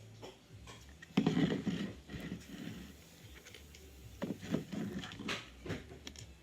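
Plastic LEGO bricks being handled and pressed together: a burst of clattering about a second in, then scattered clicks and light knocks.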